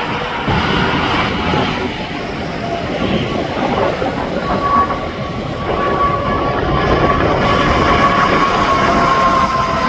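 Heavy trucks and traffic passing on an interstate highway: a steady rush of tyre and engine noise, with a high whine that sinks slightly in pitch over the last few seconds as a vehicle goes by.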